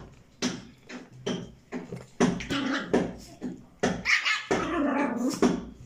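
A quick series of short vocal sounds, about two a second, with longer drawn-out calls about two and four seconds in.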